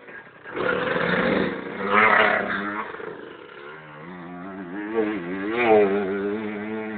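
Enduro motorcycle engine revving hard, its pitch rising and falling with the throttle, loudest about two seconds in and again near six seconds.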